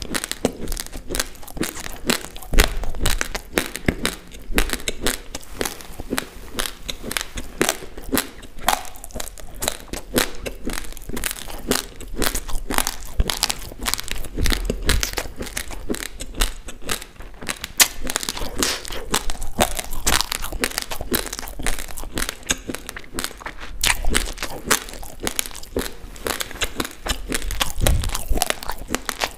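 Close-miked chewing of raw, uncooked basmati rice: a dense, unbroken run of small, sharp crunches as the hard grains crack between the teeth.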